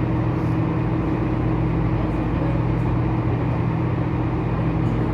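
Tour boat's engine running steadily underway: an even low drone with a constant pitch, over a haze of water and wind noise.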